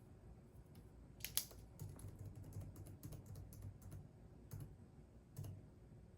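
Computer keyboard typing, faint: one sharp keystroke about a second in, then a run of quick taps, and a couple of separate keystrokes near the end.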